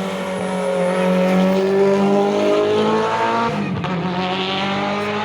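Rally car engine revving hard under acceleration, its pitch climbing for about three and a half seconds. It drops briefly, as at a gear change, and pulls again.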